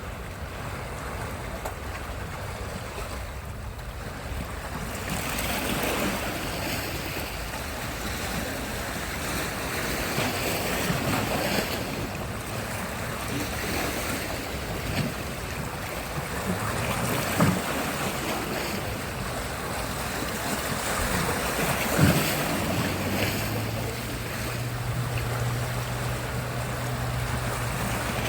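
Sea surf: waves breaking and washing in, the noise swelling and easing every few seconds. A couple of sharp knocks, and a low steady hum joins for the last several seconds.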